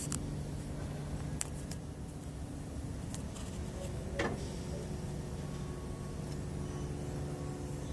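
Sterling HX9500 truck's diesel engine running steadily, a low even hum heard inside the cab, with a couple of faint clicks.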